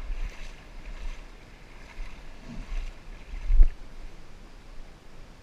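Wind buffeting a small camera's microphone in uneven low gusts over the faint rush of creek water, with a stronger gust about three and a half seconds in.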